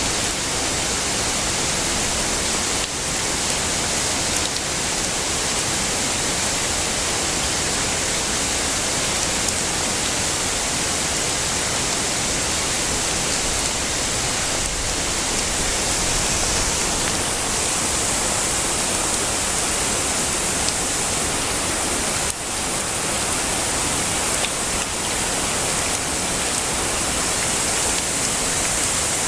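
Heavy rain falling steadily, a dense unbroken hiss with a few faint sharper drop hits.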